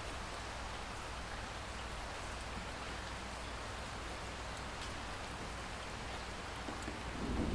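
Steady rain falling, an even hiss with a few scattered drop ticks. Near the end a low rumble of thunder begins to build.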